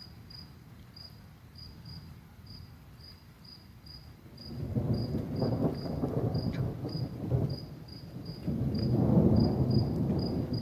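Thunder rumbling in two rolling swells, the first from about four seconds in and a louder one near the end, over crickets chirping steadily at about two or three chirps a second.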